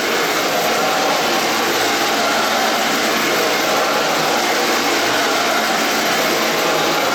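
Radio-controlled KV-1 tank model running, a steady mechanical, engine-like noise with faint steady tones in it.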